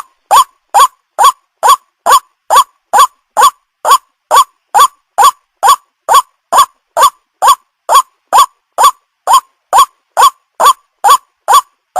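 White-breasted waterhen call (the ruak-ruak lure call) repeated over and over, about two short curved notes a second in a steady, unbroken rhythm.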